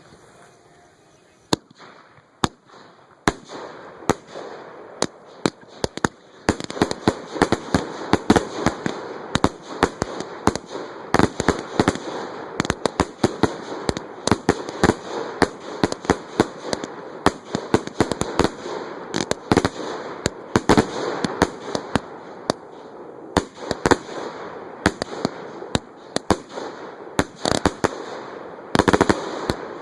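Fireworks going off: a few scattered sharp bangs at first, then from about six seconds in a dense, rapid run of bangs with continuous crackling between them, and a thick cluster of reports near the end.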